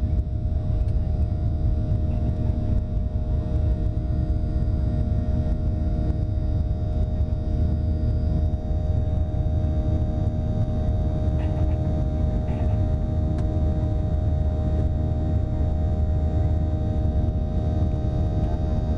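Jet airliner, a Gol Boeing 737, heard from the passenger cabin under steady climb power after takeoff: a constant deep rumble with a steady engine drone.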